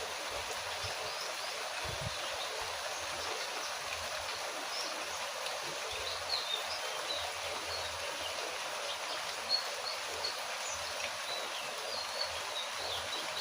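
Steady rain falling as an even hiss, with short high bird chirps here and there, more often in the second half.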